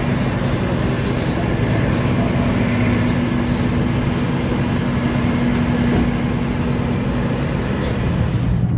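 Large engine running with a steady drone. Near the end the sound changes abruptly to a different engine note.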